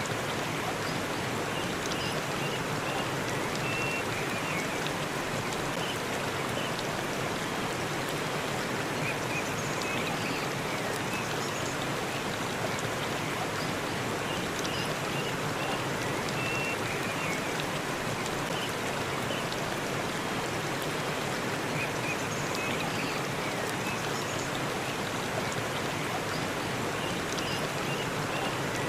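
Forest waterfall: a steady, even rush of falling water. Faint short high chirps recur every few seconds.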